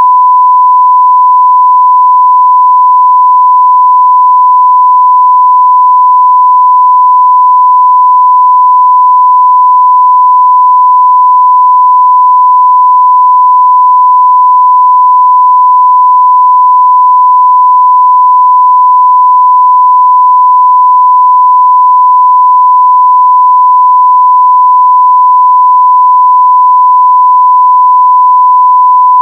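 Steady 1 kHz sine-wave test tone at full level (0 dB), a continuous pure beep with no change in pitch or loudness.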